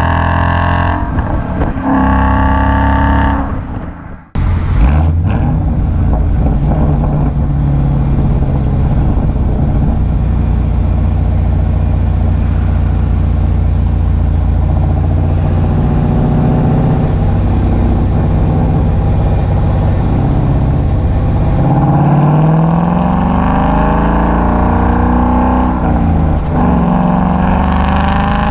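Mustang GT's 5.0 V8 through a Corsa Extreme cat-back exhaust, under way: two short pulls with rising pitch, a sudden brief drop about four seconds in, then a long steady drone at cruise. In the last several seconds it pulls again with the pitch climbing steadily.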